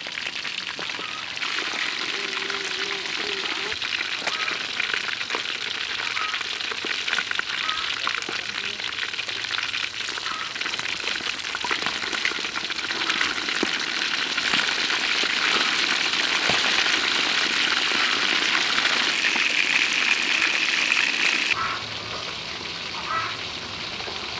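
Pieces of fish deep-frying in hot oil in a wok: a dense, steady sizzle with fine crackling that grows louder toward the end, then cuts off suddenly near the end.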